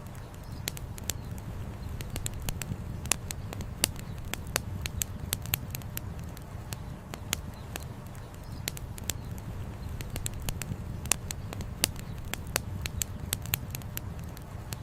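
Wood campfire crackling: irregular sharp pops and snaps, several a second, over a steady low rushing of flowing river water.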